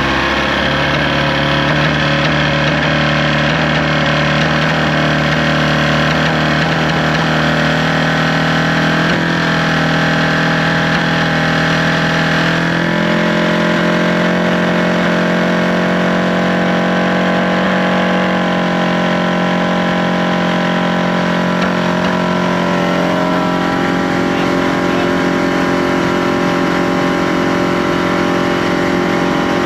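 Outboard motor idling steadily, with a slight shift in pitch near the middle.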